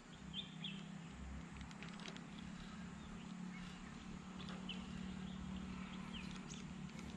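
Faint outdoor ambience: a few short, rising bird chirps over a steady low hum.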